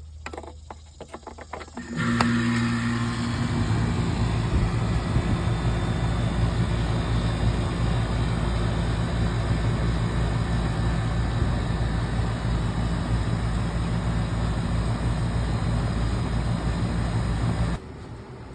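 Newly installed Bryant 2.5-ton central air-conditioning condensing unit starting up: a few clicks, then about two seconds in a sudden steady hum from the compressor with the whoosh of the condenser fan, running evenly until it cuts off suddenly near the end.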